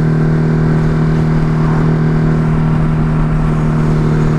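Ducati Hypermotard's L-twin engine running at steady revs as the bike cruises along, one even drone with no rise or fall in pitch.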